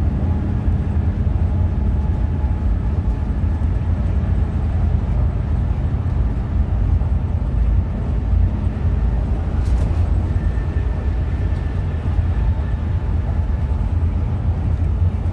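Hino RM 280 bus under way, its engine and tyres making a steady low rumble with constant road noise.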